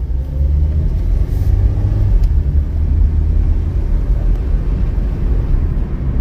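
2002 Honda Civic LX under way, a steady low rumble of engine and road noise; the freshly rebuilt automatic transmission is in gear and running without any clatter.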